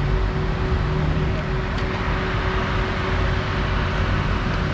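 Steady low rumble of an idling car engine, with a thin steady hum over it.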